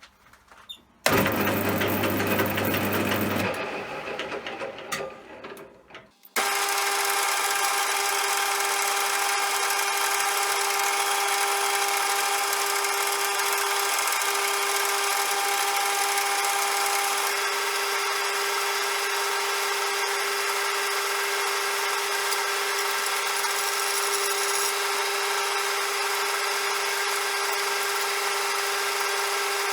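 CJM360 benchtop metal lathe: a short burst of machine noise that dies away over a few seconds, then from about six seconds in the lathe runs steadily with a constant whine.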